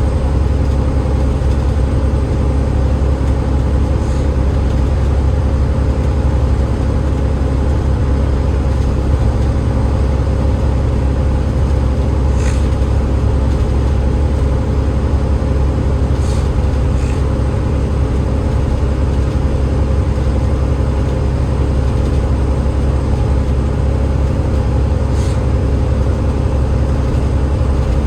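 A Cummins ISL8.9 diesel engine and ZF EcoLife automatic gearbox of an Enviro500 MMC double-decker bus, heard from on board, running steadily under way with a deep, even rumble. There are a few faint brief ticks from inside the bus.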